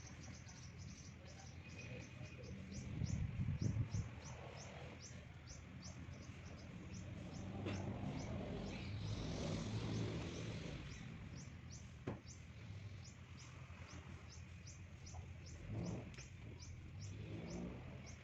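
A bird chirping over and over, short high chirps about two or three a second, over a low steady hum.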